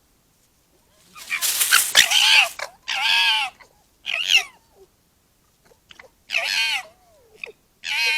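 Foxes calling: about five harsh, whining squeals, each rising and falling in pitch, starting about a second in. The first is the longest and roughest.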